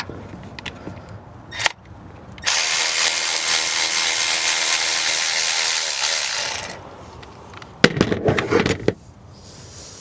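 Power tool with a 10 mm socket running steadily for about four seconds, backing out a bolt that holds an ignition coil pack. About a second later comes a brief rattle of sharp metallic clicks and knocks.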